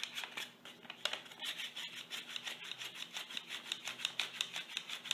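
Folded paper origami flapping bird worked by pulling its tail again and again, the paper wings flapping in a quick, fairly even run of dry papery crackles.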